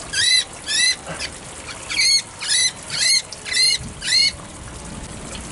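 A Eurasian blackbird snagged by one leg giving harsh distress calls: two quick calls, a short pause, then five more about half a second apart before it falls silent.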